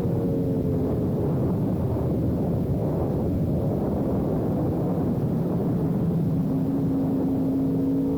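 Sport motorcycle engine running under steady riding, mixed with heavy wind rush. The engine note eases down slightly in the first second and holds a steady pitch near the end.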